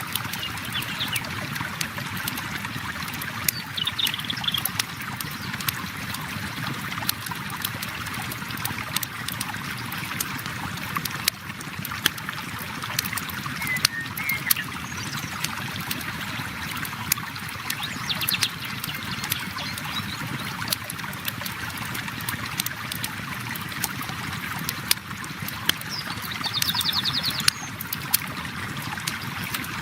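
Steady rush of a flowing river with a campfire crackling in small sharp pops throughout. A few short bird chirps come and go, with a quick trill near the end.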